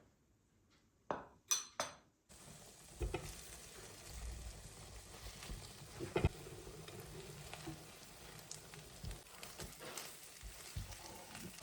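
A few light clicks, then from about two seconds in a steady sizzle of food frying in a pan. Scattered clicks of a utensil against the pan run through it, with one louder knock near the middle.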